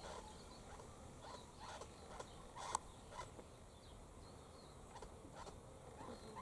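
Faint, scattered short bird calls and clicks, with one sharper click just under three seconds in.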